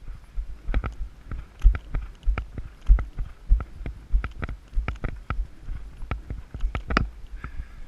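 A horse's hooves striking the ground at a steady, even pace, about three beats a second, over a low rumble.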